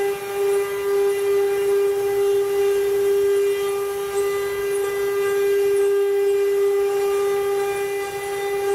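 Spindle motors of a CNC wood-carving machine running at speed: a steady high-pitched whine.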